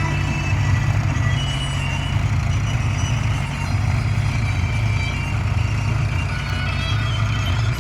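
Tractor diesel engine running steadily under load while pulling a cultivator.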